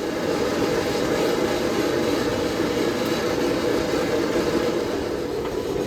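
Forge burner running: a steady rushing noise with no break or change.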